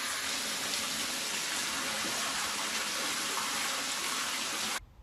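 Water gushing and spraying up out of an overflowing toilet, forced back up by storm flooding; a steady rush that cuts off suddenly near the end.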